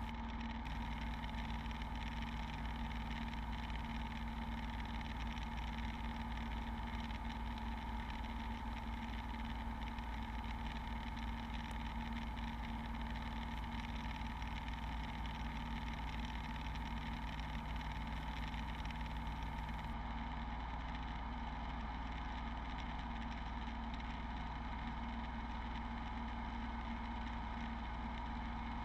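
Beechcraft Bonanza V35's six-cylinder engine and propeller running steadily at cruise, heard from inside the cabin as an even drone.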